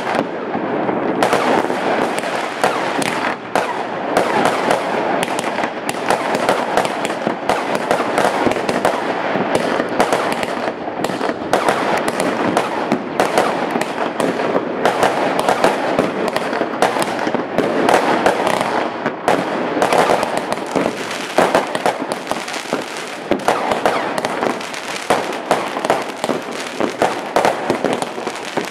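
Many fireworks going off at once all around: a dense, unbroken barrage of rocket and firecracker bangs and crackling, with no let-up.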